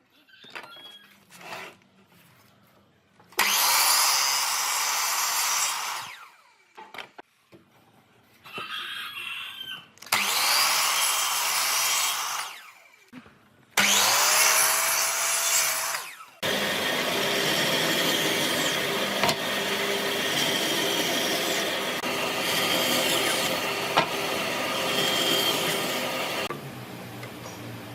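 Power tool working wood in three short runs of a few seconds each, then one longer run of about ten seconds that stops near the end; one run starts with a rising motor whine.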